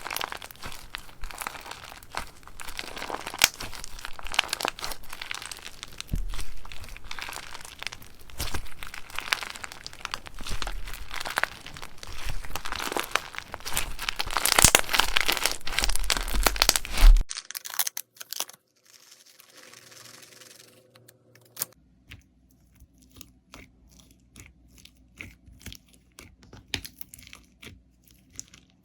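Slime being squeezed and stretched by hand, a dense run of crackling, popping clicks. It cuts off abruptly about seventeen seconds in, followed by much quieter, sparser clicks.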